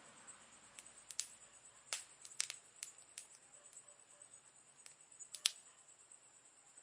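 Campfire crackling: irregular, sharp pops and snaps from burning wood over a faint hiss, the strongest pop about five and a half seconds in.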